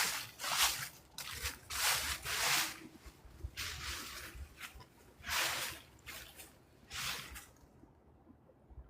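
Footsteps walking through fallen leaves, each step a short rustle, coming irregularly every half second to a second and a half, then stopping about seven and a half seconds in.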